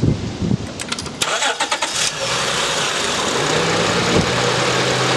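2006 Acura TL's 3.2-litre V6 being started: the starter cranks briefly, the engine catches about two seconds in and settles into a steady idle.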